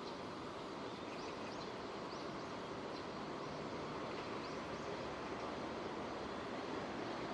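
Steady rainfall, an even hiss that holds at one level throughout. A few faint, short high chirps sound over it during the first five seconds.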